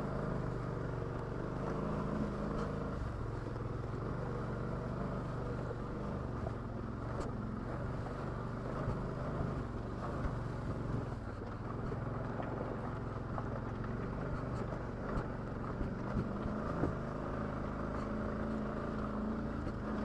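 ATV engine running steadily at low revs, with a few short knocks and clicks, mostly in the second half.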